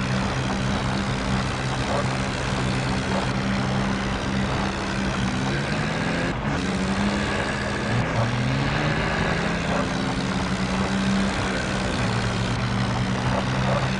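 Tractor engines running steadily, their pitch sliding down and back up about halfway through.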